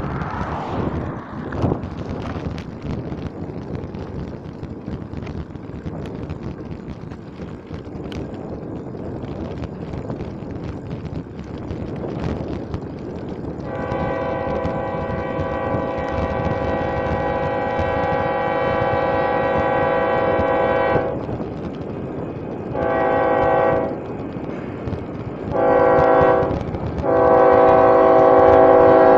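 Union Pacific diesel locomotive's multi-chime air horn sounding for a grade crossing, after about thirteen seconds of steady background noise. It gives one long blast of about seven seconds, then a short blast, then two more long ones, the last held and getting louder.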